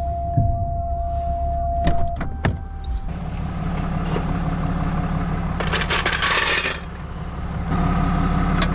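A steady high electronic tone stops about two seconds in, and about three seconds in a truck engine starts running with a steady low idle. A short burst of hiss comes around six seconds in, and the engine note grows louder near the end.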